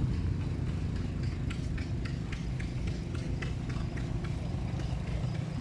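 An engine running steadily with a low hum, with a quick, even light ticking over it at about four to five ticks a second.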